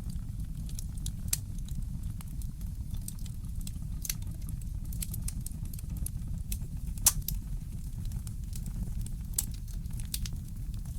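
Fireplace crackling: scattered sharp pops and snaps over a steady low rumble, the loudest pop about seven seconds in.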